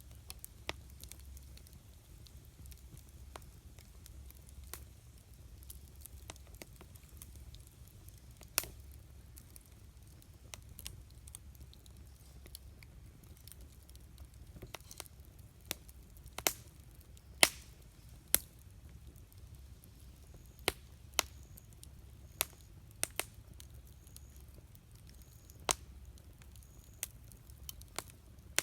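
Wood campfire crackling, with scattered sharp pops at irregular intervals; a few louder pops come close together just past halfway. A low steady rumble runs underneath.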